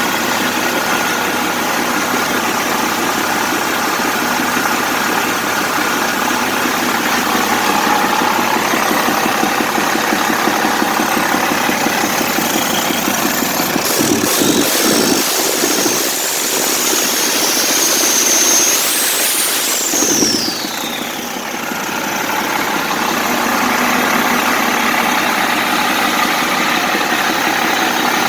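1995 International DT466 7.6-litre inline-six diesel, with a mechanical inline injection pump, running steadily on test. About twenty seconds in, a high whine falls away and the engine briefly drops in loudness before settling back.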